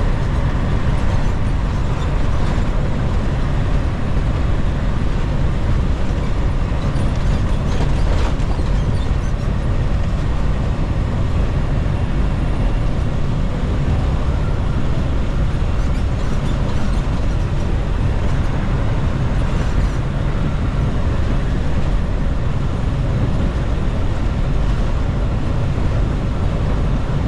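Steady drone of a semi-truck at highway cruising speed heard from inside the cab: engine and road noise, heaviest in the low end.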